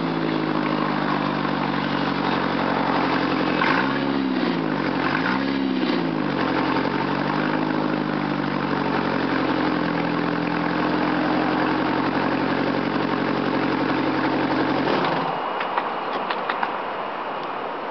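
1995 Ford Escort LX's four-cylinder engine idling with an exhaust leak, revved briefly twice about four and five and a half seconds in. It is switched off about fifteen seconds in, followed by a few faint clicks.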